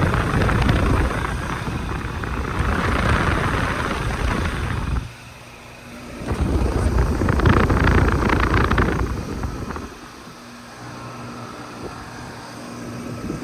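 Two Rheem Value Series air-conditioner condensers running after start-up. Two loud rushes of fan air buffet the microphone, the first lasting about five seconds and the second about three. In the last few seconds the steady hum of the scroll compressors and fans is heard.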